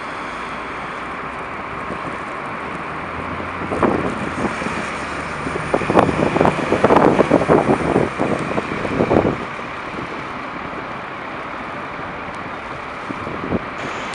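Snowstorm street traffic with wind buffeting the microphone; the noise grows louder and rougher from about four to nine seconds in.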